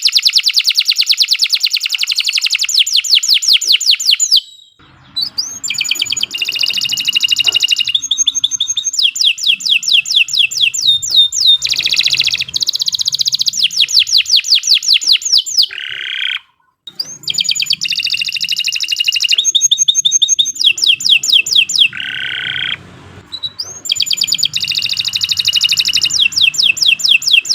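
Domestic canary singing long, continuous song: phrases of rapid repeated trill notes and quick glides, each lasting several seconds, with three brief pauses.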